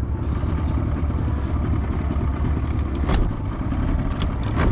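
Small boat's outboard motor running steadily, with two sharp knocks, about three seconds in and again near the end.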